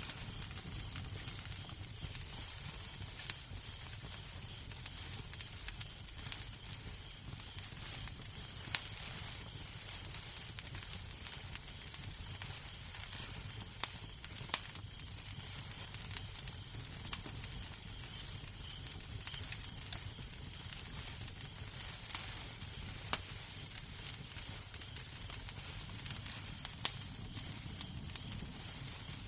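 Wood fire crackling in a fireplace: steady soft hiss and a low rumble, with scattered sharp pops and snaps.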